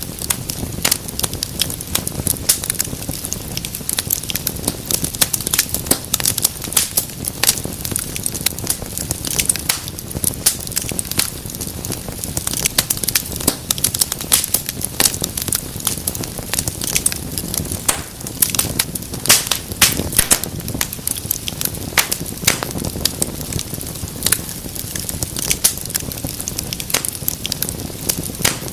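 Wood fire crackling steadily: many sharp pops and snaps, scattered irregularly, over a soft low rush of burning flames.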